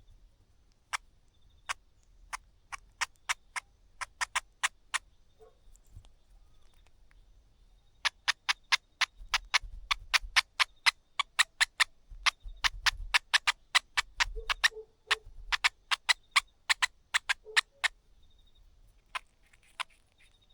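Streaked spiderhunter giving sharp, clicking call notes. They come scattered at first, then from about eight seconds in they run fast, several a second, for about ten seconds before thinning out.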